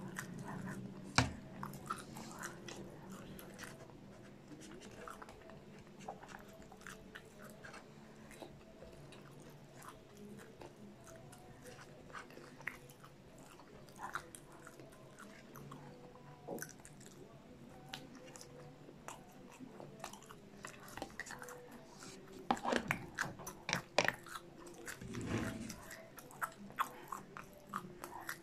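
Close-miked chewing and mouth sounds of a person eating cheese-sauced popcorn chicken, with many small scattered clicks and a louder stretch of them near the end. A plastic sauce cup and its lid are handled, and a piece is scraped through the sauce with a toothpick.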